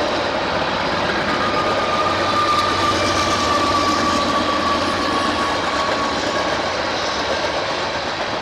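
A train rolling past on the main line, a steady, loud rush of wheels on rail, with a faint high tone held for a few seconds in the middle.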